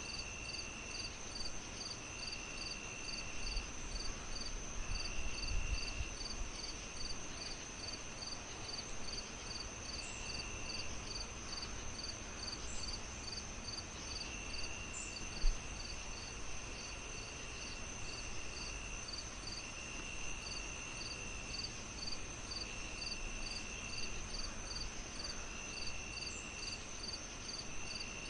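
Crickets chirping in an even rhythm, a few chirps a second, over a steady high insect trill and a lower trill that comes and goes in spells of a second or two. A low rumble runs underneath, with one sharp pop about halfway through.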